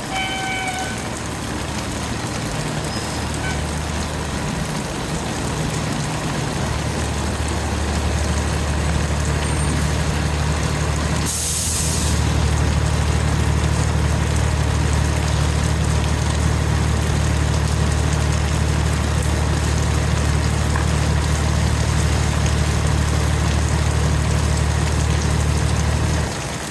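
Fire engine's diesel engine running with a steady low drone that grows louder twice. A little before halfway there is one short, sharp air-brake hiss.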